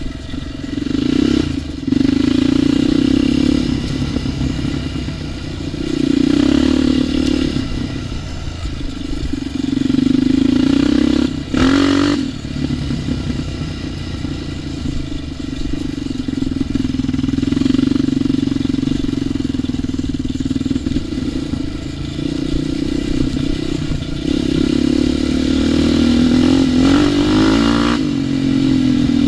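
ATV engine being ridden along a trail, revs rising and falling again and again with the throttle, with a short clatter about twelve seconds in.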